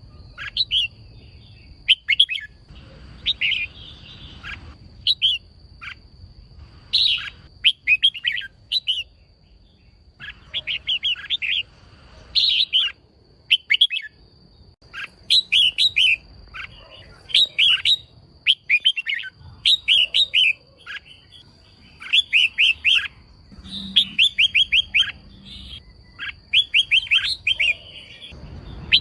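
Female red-whiskered bulbul calling: short clusters of quick, sharp chirps repeated every second or two.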